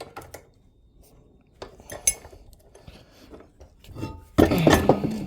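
Metal tools and parts clinking and knocking as they are handled, one strike ringing about two seconds in. A louder, longer clatter comes near the end.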